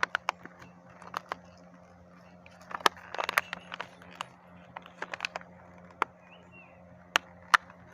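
Hands opening and handling a small parcel's packaging: scattered sharp clicks and crackles, busiest about three seconds in, over a faint steady hum.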